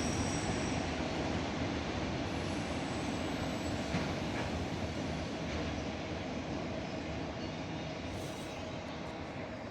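Freight train of autorack cars rolling past: a steady rumble and rattle of wheels on rail with a faint steady squeal, slowly fading.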